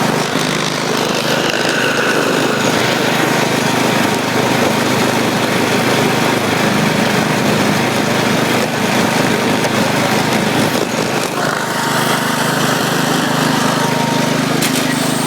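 1972 IH Cub Cadet 128 garden tractor's single-cylinder engine running steadily as the tractor is driven.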